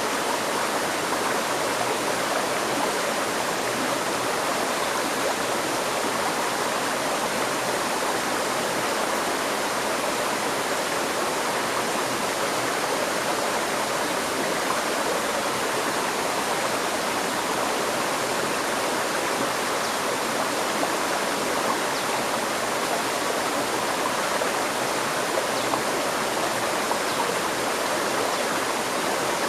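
River stream flowing steadily, an even rushing of water without pause.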